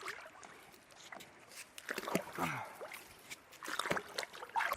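Light water splashing with scattered small knocks and clicks as a large carp is handled in shallow water.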